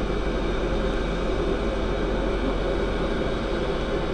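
Steady engine noise without change, an even rumbling hum.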